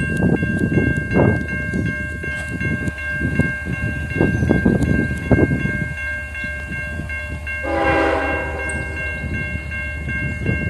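Train rolling slowly past: a low rumble with irregular knocks from the cars, steady high ringing tones throughout, and a short horn sound about eight seconds in.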